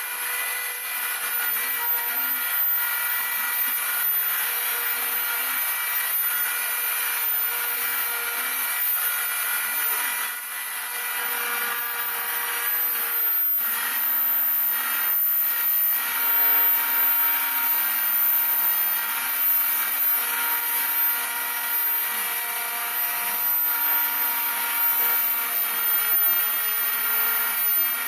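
Homemade CNC router milling airplane wing ribs: the spindle runs with a steady high whine over cutting noise, while lower tones from the axis motors come and go as the machine moves.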